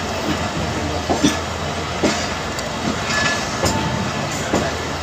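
Tezgam Express passenger train running on the rails: a steady rumble with a few scattered clacks of the wheels.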